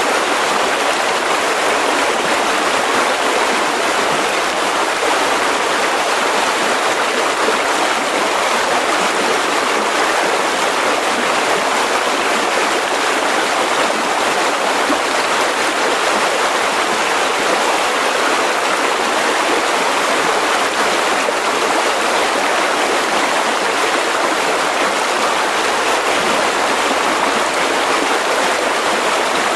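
Mountain river rushing steadily over rocks, a constant loud flow of water without breaks.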